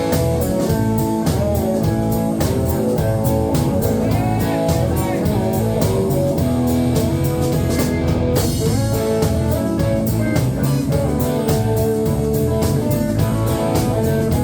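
Live country-rock band playing an instrumental break: guitar over a steady drum beat and bass.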